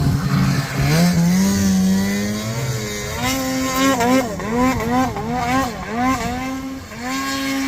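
Snowmobile engine revving hard. Its pitch climbs, then surges and sags over and over, about twice a second, before holding high near the end. This is typical of a sled fighting for traction in deep snow.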